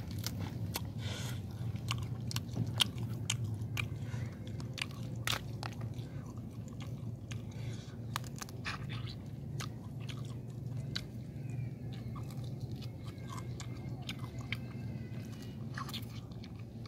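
Close-up chewing and biting of crunchy fried duck, with many sharp, irregular crunches.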